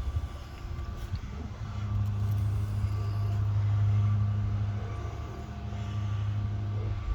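1992 Buick Riviera's 3.8-litre V6 engine running: a steady low hum that swells to its loudest around the middle and then eases off.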